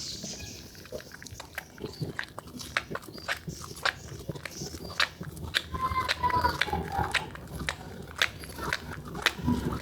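Wet, soaked bar soap being squeezed and lathered in the hands, making irregular squishy crackles and clicks, with a brief squeak about six seconds in.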